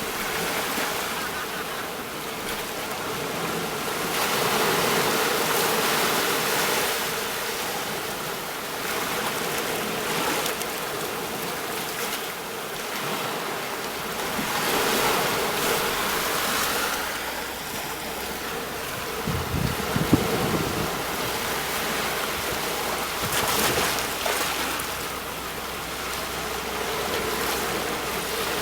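Sea waves breaking on a shore: a continuous wash of surf that swells and ebbs every few seconds, with a brief low thump about two-thirds of the way through.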